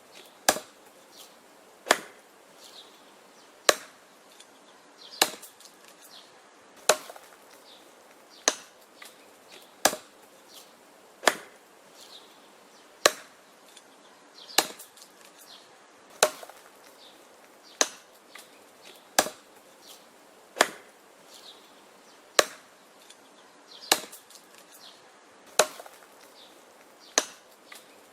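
Wood being chopped: about eighteen sharp, evenly paced chopping strikes, roughly one every one and a half seconds, with fainter knocks between the blows.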